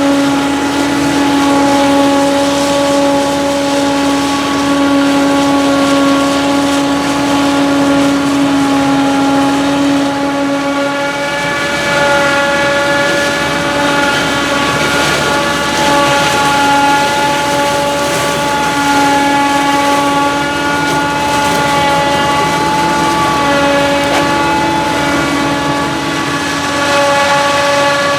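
Heavy diesel machinery running steadily under load, with a constant whining hum over the engine noise. The mix of tones changes about a third of the way in.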